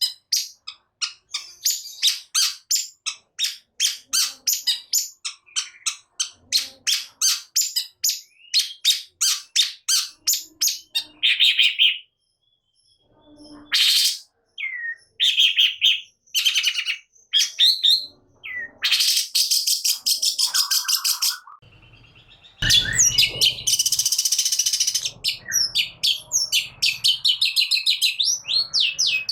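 Long-tailed shrike singing: a fast run of sharp repeated high notes, about three a second, for the first ten seconds or so, then after a short pause varied phrases broken by two harsh rasping calls lasting a second or two.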